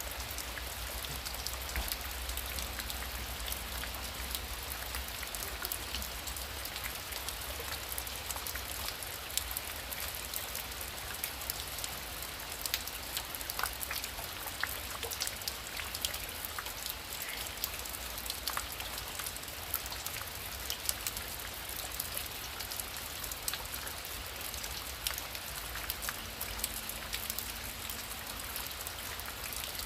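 Heavy rain falling: a steady hiss dotted with many sharp individual drop hits, over a low rumble.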